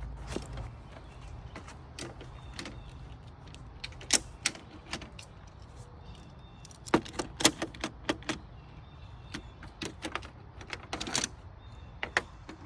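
Die-cast toy cars clicking and clattering as they are handled and set into their lanes, in scattered clusters of sharp clicks that are busiest about halfway through.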